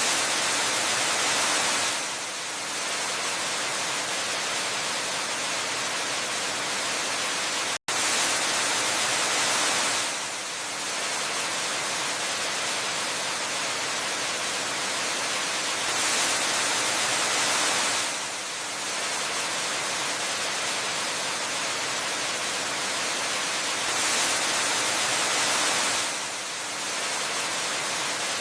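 Steady rush of a waterfall, an even hiss across the whole range, swelling a little louder for a couple of seconds about every eight seconds. About eight seconds in, the sound cuts out for a split second.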